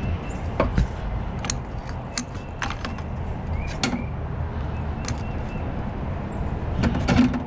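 Adjustable wrench clinking and ticking against a metal fitting as it is snugged up after an oil drain, a series of sharp metallic clicks with a quick cluster near the end, over a steady low rumble.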